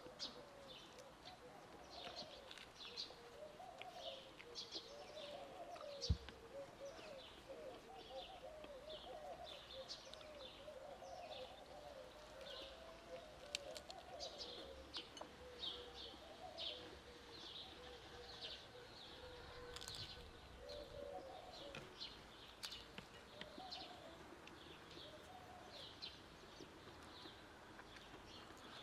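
Birds chirping on and on: many short, high chirps from small songbirds over lower wavering calls, all faint. A single sharp knock about six seconds in.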